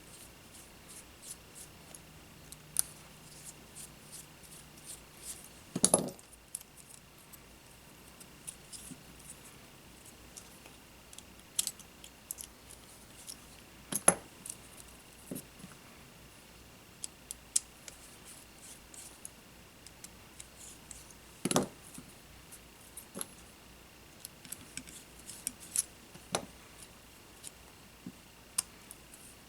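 Small tools and parts being handled on a workbench during a drone frame repair: scattered light clicks and taps, with three louder knocks spread through. A faint steady high whine runs underneath.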